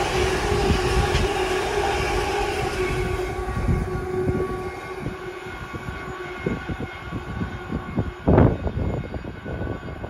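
A passing train running away into the distance, its rumble and steady whining tones fading out over the first half. After that come irregular low thumps and rumbles, the loudest about eight seconds in.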